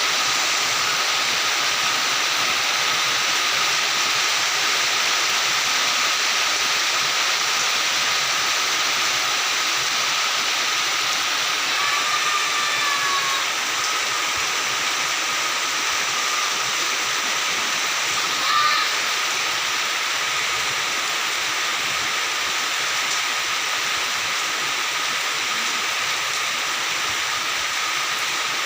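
Steady rain falling, an even loud hiss with a faint steady tone under it. A short pitched call rises and falls about twelve seconds in, and another brief one comes a few seconds later.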